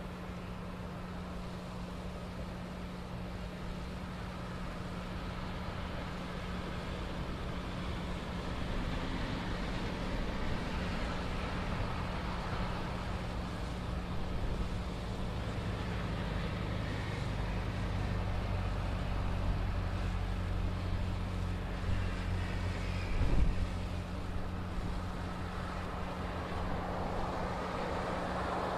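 Steady vehicle rumble with a constant low hum, slowly growing louder, and a short thump about 23 seconds in.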